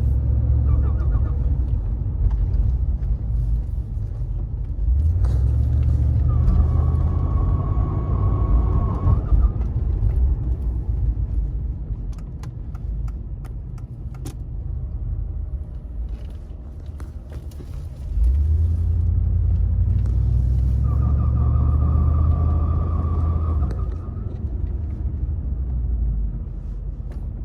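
Car running with a low rumble that swells twice, each time joined for a few seconds by a steady high-pitched whine: the strange noise the owner hears from the back of the car.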